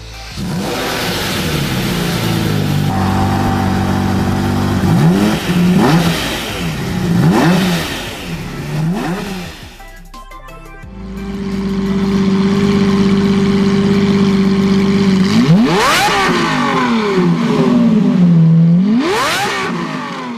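Lamborghini Reventón's 6.5-litre V12 idling, then blipped several times in quick rises and falls. After a short break it idles again and is revved sharply twice near the end.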